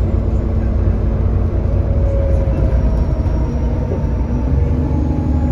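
Alexander Dennis Enviro400 bus's 6.7-litre Cummins ISB diesel engine running steadily under way, heard on board, with a deep steady rumble and a faint whine that drifts slightly lower in pitch. This is a bus with a leaking exhaust.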